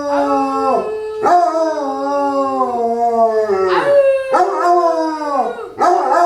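Dog howling together with a second howling voice: long, drawn-out, overlapping howls that sag down in pitch as each one ends, with short breaths between them.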